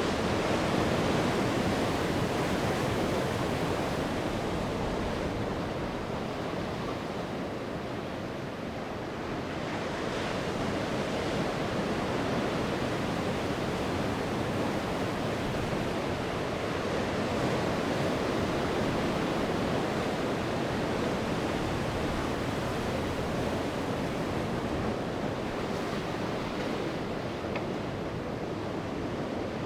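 Sea waves breaking and washing on the shore in a continuous rushing surf. The wash swells and ebbs slowly, easing off around eight seconds in and building again about ten seconds in.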